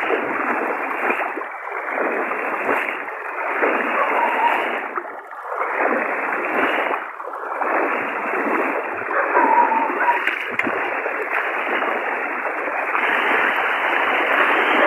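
Floodwater rushing and splashing in a steady, noisy surge that dips briefly every few seconds, sounding thin and narrow with no deep bass.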